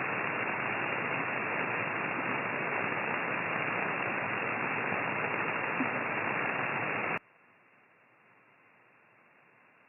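Steady radio static through a single-sideband receiver's narrow passband, from the Q900 transceiver's keyed transmission with no one speaking. About seven seconds in it cuts off suddenly to a much fainter hiss, as the transmission ends.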